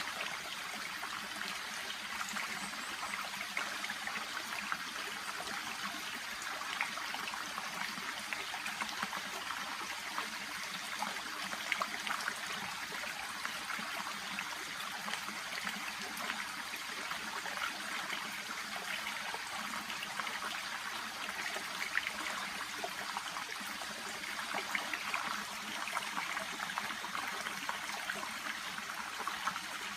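Shallow brook babbling and trickling steadily, with small irregular splashes throughout.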